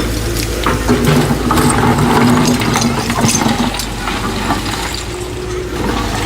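Heavy construction machine's engine running steadily, with scattered metallic clanks and rattles.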